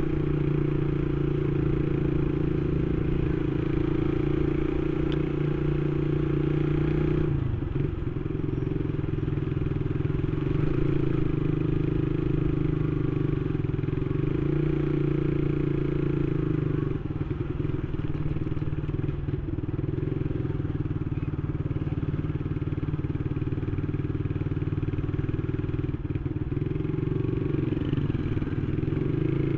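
Single-cylinder motorcycle engine running steadily while riding. The engine note drops and shifts about seven seconds in and again about seventeen seconds in, as with a throttle or gear change.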